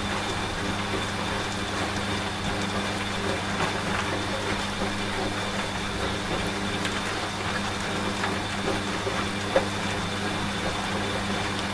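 Washing machine running with a steady motor hum, mixed with the steady noise of falling rain and scattered drop ticks. One sharper tick stands out about nine and a half seconds in.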